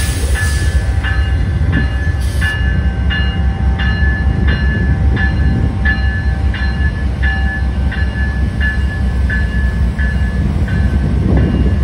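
Amtrak GE Genesis P42DC diesel locomotives rumbling slowly past a grade crossing while the crossing bell dings steadily, about one and a half strikes a second.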